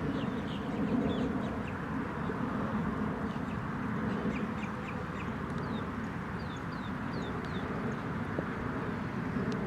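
Birds calling in many short, quick descending chirps over a steady background rush.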